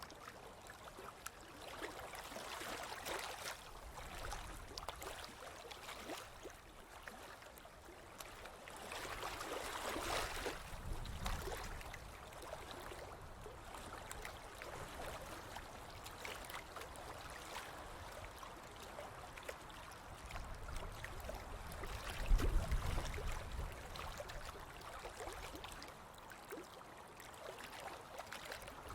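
Ocean waves washing onto a beach, the surf swelling and fading in slow surges, with a deeper low rumble about two-thirds of the way in that is the loudest moment.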